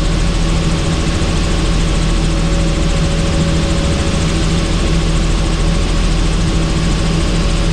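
Helicopter running steadily: an even rush of rotor and engine noise with a constant hum underneath.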